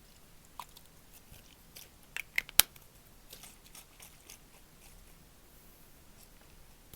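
Close-miked ASMR trigger sounds: crisp clicks and crunches, with a quick run of three or four sharp, loud ones a little over two seconds in and softer scattered crackles around them.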